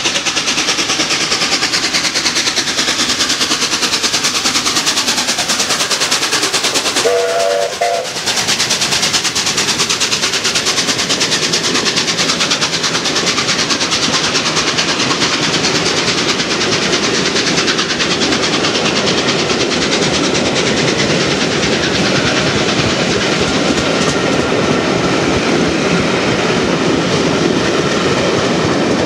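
Steam train hauled by 60163 Tornado, an LNER Peppercorn A1 Pacific, passing at speed, with a steady loud rumble and rapid clatter of coach wheels over the rails. A short chord whistle sounds about seven seconds in.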